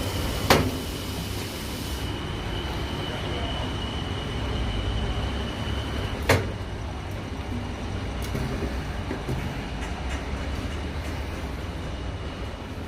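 Nissan UD MK38 lorry's 4.7-litre engine running with a steady low rumble, broken by two sharp knocks about half a second in and about six seconds in. A faint high whine stops at the second knock.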